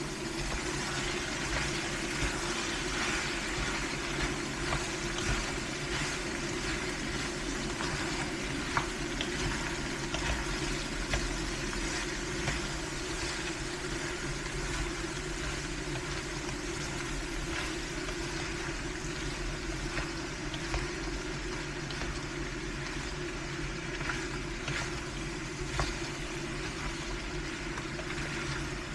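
Food frying in a pan: a steady sizzle with scattered small crackles, over a low steady hum.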